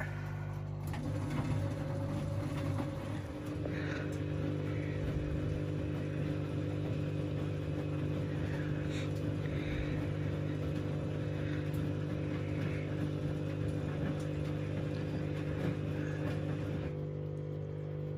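Washing machine running its down programme with a pillow inside: a steady motor hum, with the drum turning and the load and water churning from about a second in until shortly before the end.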